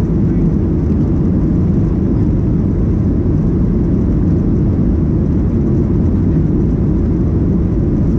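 Airliner cabin noise: the jet engines and rushing air as a steady low rumble, heard from inside the passenger cabin.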